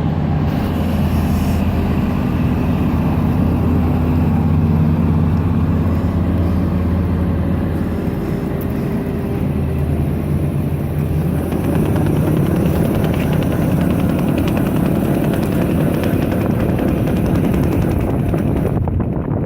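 Cummins QSC 8.3 six-cylinder diesel engine of a Wirtgen W 100F cold milling machine running steadily. About halfway through, the sound turns rougher and noisier.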